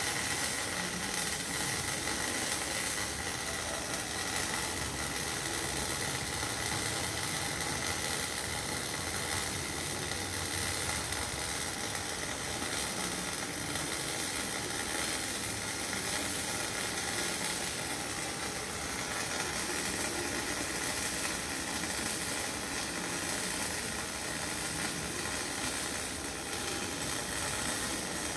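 MIG welding arc on steel pipe, a steady, dense crackle and hiss that holds an even level throughout, with a faint steady whine underneath.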